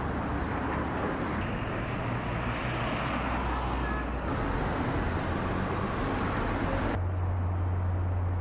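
Steady rumble of a moving vehicle, with a low engine hum under a haze of noise. The sound changes abruptly a few times.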